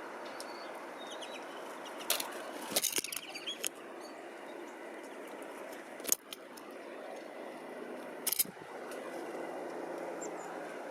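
Small birds at a feeder: a few short, sharp clattering sounds about two, three, six and eight seconds in, as birds land, flutter and take off, with faint high chirps, over a steady background hum.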